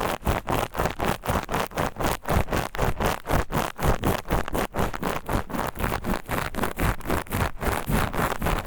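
Steel wool scrubbed against the ear of a KU100 binaural dummy-head microphone: a rapid, even scraping of about five strokes a second.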